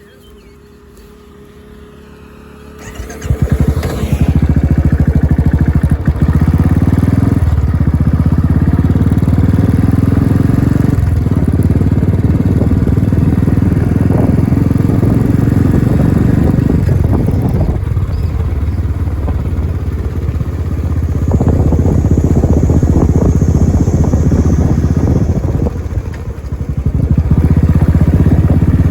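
Royal Enfield Classic 350's single-cylinder engine started about three seconds in, then running with a steady, even thump. Its level dips briefly a few times and rises again near the end.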